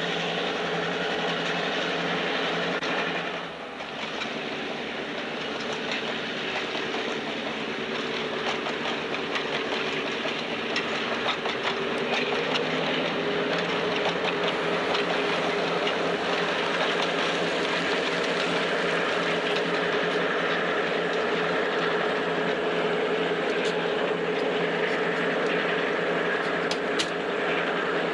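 Passenger train's coaches rolling past on the rails: a steady rumble and hiss with scattered wheel clicks, and a few sharper clicks near the end.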